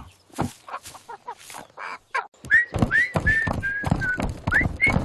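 A few scattered taps, then about halfway in a whistled tune of short notes, about three a second, gradually stepping down in pitch over low rhythmic thuds.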